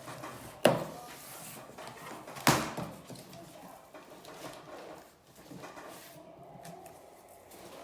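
Cardboard box and packaging being handled and pulled open, with two sharp knocks about two seconds apart and rustling in between.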